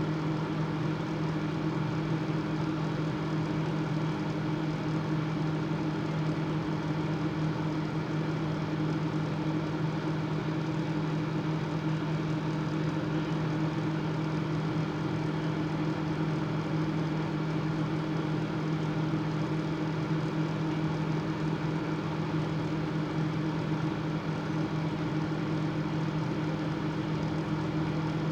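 Microwave oven running with a steady, even hum while it cooks.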